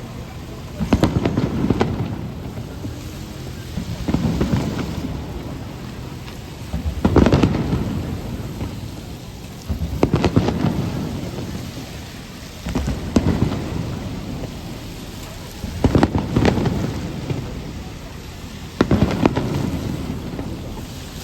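Aerial firework shells bursting about every three seconds, each a sudden deep boom that rolls away in a low rumble, over a steady hiss of rain.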